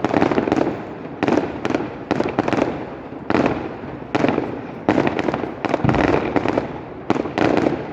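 Fireworks display going off: a rapid volley of sharp bangs, one every half second or so, each rumbling away before the next.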